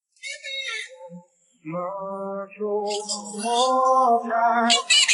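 Singing voice on long held, steady notes, starting just under two seconds in and growing louder. It comes after a brief high chirping sound near the start.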